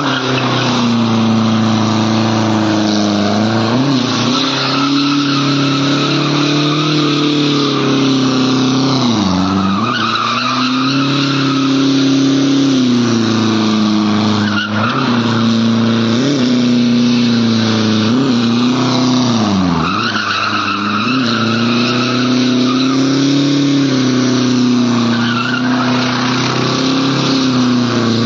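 Mercedes-Benz C220 turbo diesel doing a burnout: the engine is held at high revs with its drive wheels spinning and squealing on the road. The revs dip briefly now and then and recover.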